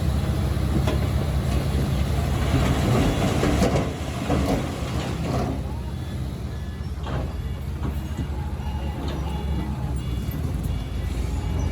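Heavy-equipment diesel engine running steadily, with a few short metallic knocks, and it drops in loudness about four seconds in.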